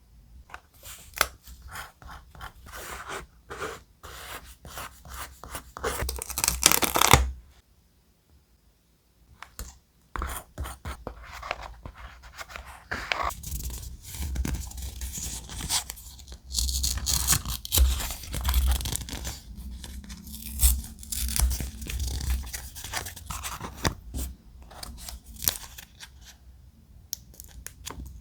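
Thick, textured paper being handled and torn, with scraping and many crisp crackles. There is a short silence of a couple of seconds about eight seconds in.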